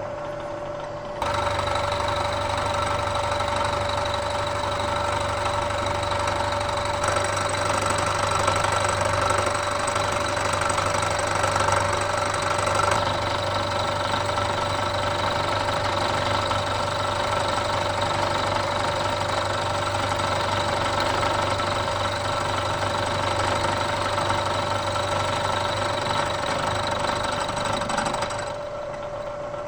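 Bridgeport milling machine taking a 100-thousandths-deep pass with an end mill: the spindle runs with a steady whine, and the cut starts about a second in and grinds on until it stops near the end.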